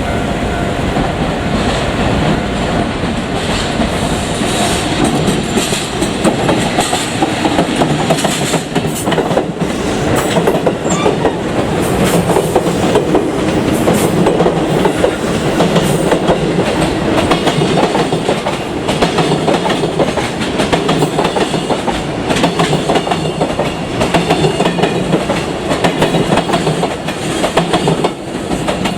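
Train passing close by, its wheels clacking steadily over the rail joints.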